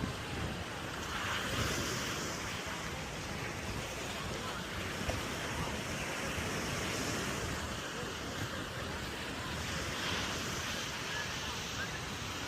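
Ocean surf washing onto a sand beach, swelling every few seconds, with wind buffeting the microphone.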